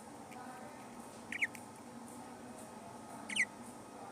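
Budgerigar giving short high chirps, twice, about two seconds apart.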